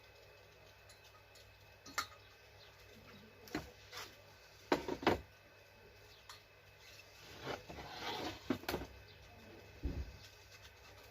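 Metal parts and hand tools clinking, knocking and scraping during hand work on a car cylinder head: several separate clinks, two close knocks about five seconds in, and a rough scraping stretch near the two-thirds mark.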